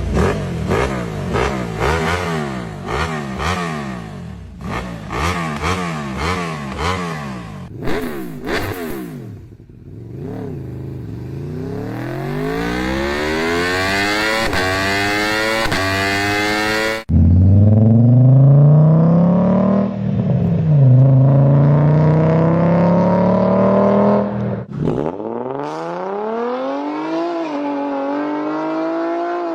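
Several V-engine cars revving and accelerating, cut one after another: quick repeated blips of the throttle at first, then long runs of rising engine pitch through the gears, with abrupt changes from one engine to the next about halfway through and again near the end.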